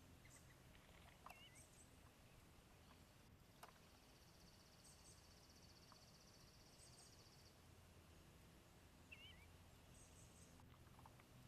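Near silence with faint outdoor bird calls: a short wavering chirp heard twice, several high short notes, and a faint fast buzzy trill lasting a few seconds, over a low steady background hum.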